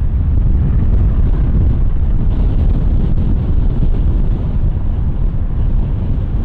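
Strong wind buffeting the camera microphone: a loud, steady low rumble that flutters without a break.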